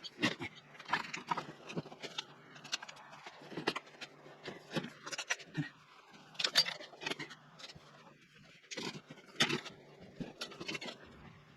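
Irregular clicks, clinks and knocks of hand tools and metal parts being handled while a motorcycle engine is reassembled, with the loudest knock about six and a half seconds in.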